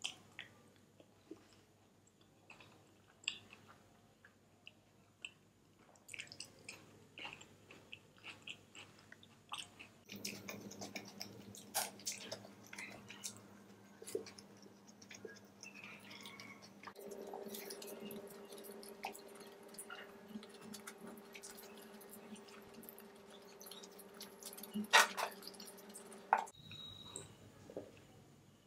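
Close-up chewing and mouth sounds of someone eating fried rice, with small clicks and scrapes of a metal spoon in foil trays. A faint steady hum sits underneath for much of the time.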